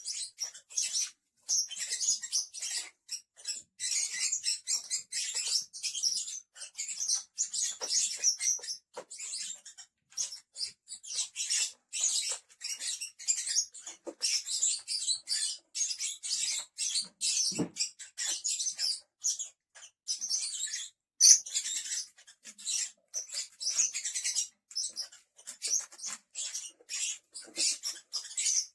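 Lovebirds chattering: a dense, almost unbroken stream of short, high-pitched chirps and squeaks.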